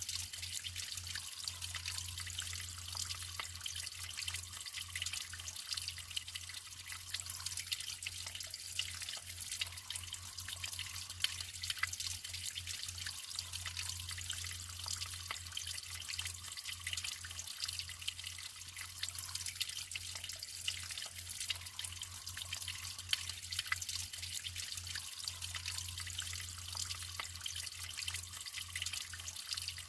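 Natural running water trickling and splashing steadily, full of small drips and splashes.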